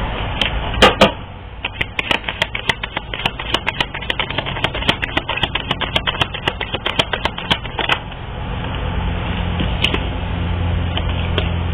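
Deck of tarot or oracle cards being shuffled: a rapid run of crisp card clicks lasting several seconds, after two sharper snaps about a second in. The clicking stops near the two-thirds mark, leaving a low steady hum.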